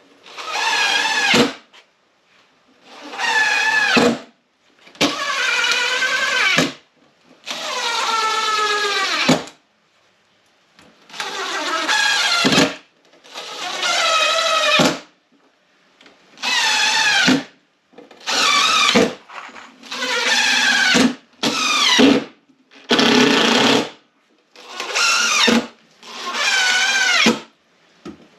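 Small power drill running in about fourteen short trigger bursts of a second or two, with pauses between them. Its whine wavers up and down as the bit loads in the wood of the dock.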